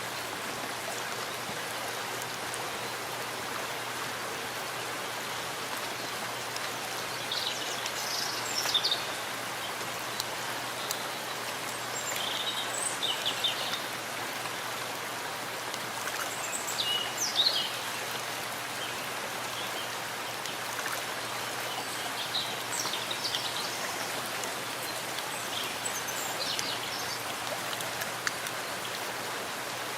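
Steady rain falling in a forest, an even hiss, with short high bird chirps breaking through several times.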